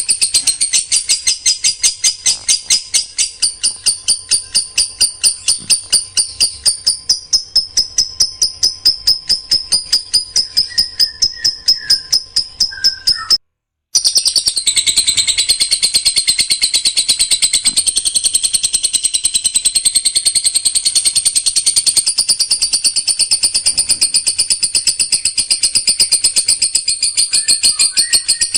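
A songbird singing a dense run of sharp, high-pitched repeated notes, several a second: the rapid 'shot' phrases prized in contest birds. The song cuts out for a moment about halfway through and then carries on.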